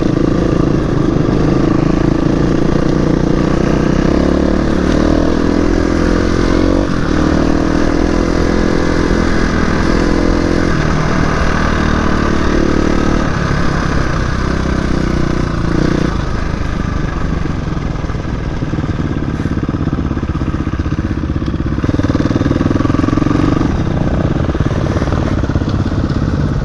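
Dirt bike engine running under way on a trail, its pitch stepping up and down several times with throttle and gear changes.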